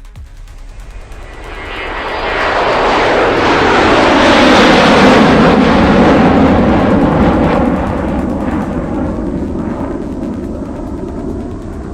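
F-35A Lightning II jet fighter flying past with its single afterburning turbofan roaring. The roar builds over a couple of seconds, is loudest in the middle and then fades as the jet passes.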